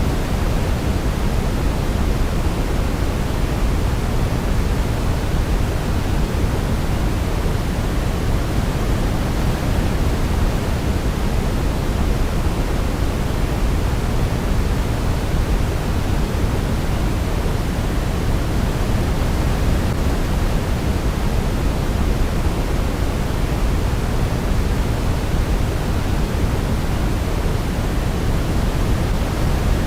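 Steady white noise for baby sleep, an even unbroken hiss weighted toward the deep end, with no melody heard over it.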